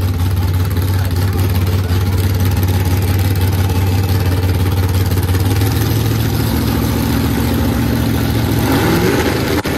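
Drag car's engine running loud and steady at the starting line, its revs climbing near the end as it readies to launch.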